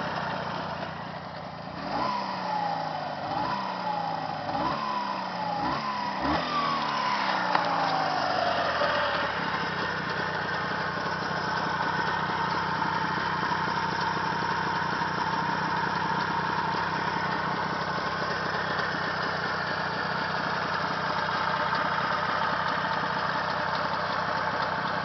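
A new engine is blipped about five times in quick succession, each rev rising sharply and falling back. It then settles into a steady idle.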